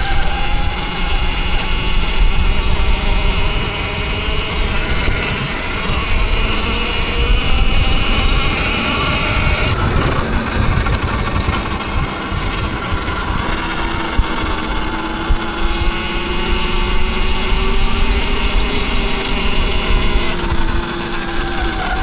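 Electric dirt bike motors whining while riding, their pitch gliding up and down with speed, over a steady low noise.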